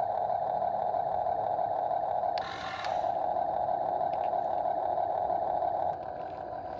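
Small electric motors and gears of a Huina 1/14 scale RC excavator whining steadily as it works, dipping briefly about two and a half seconds in and dropping quieter near the end.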